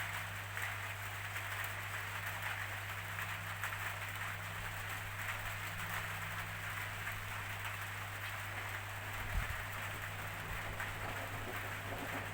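Steady rainfall: an even hiss of rain with a fine patter of drops, over a steady low hum.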